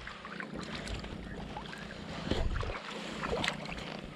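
Kayak paddling: water splashing and lapping around the hull, with scattered small knocks and drips and a low rumble. A louder splash comes a little over two seconds in.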